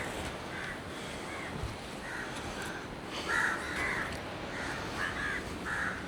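A bird calling again and again in short calls, about eight or nine of them, over steady background noise.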